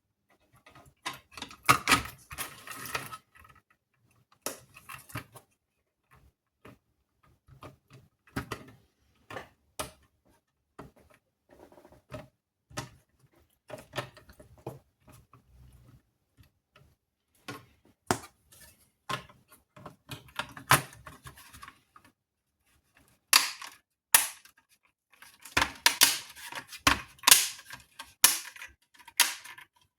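Irregular clicks, taps and knocks of small parts and tools being handled while working on a PS5 Slim power supply, busiest about two seconds in and again over the last several seconds.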